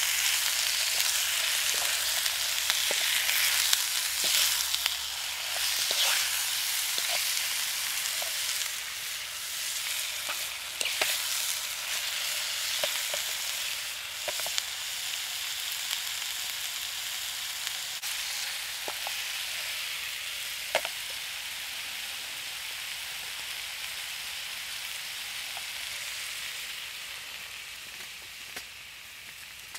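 Chicken pieces sizzling as they fry in a metal pan over a wood gasifier stove, with clicks and scrapes of a fork against the pan as the food is stirred. The sizzle is strongest in the first several seconds and dies down near the end.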